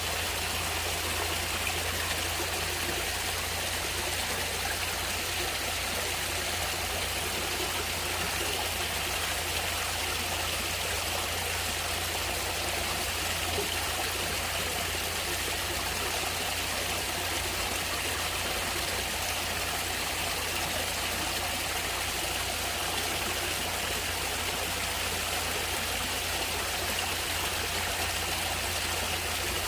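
Natural running water of a stream, flowing steadily without a break, with a low rumble underneath.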